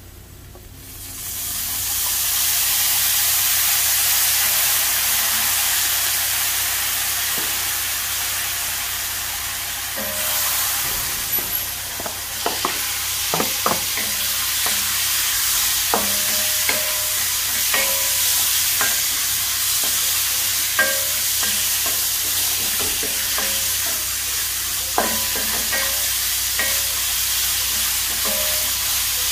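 Onions and garlic sizzling in oil in a nonstick wok, the sizzle jumping up loud about a second in as Knorr seasoning soy sauce is poured in. About ten seconds in, raw chicken pieces go in and frying continues, with a wooden spatula scraping and knocking against the pan as it is stirred.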